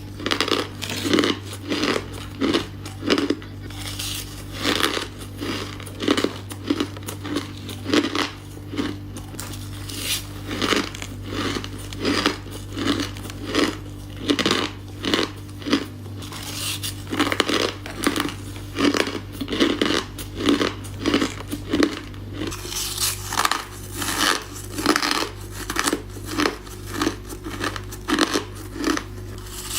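A person biting and chewing ice cubes close to the microphone: loud, crisp crunches, about one or two a second, with short pauses between bites.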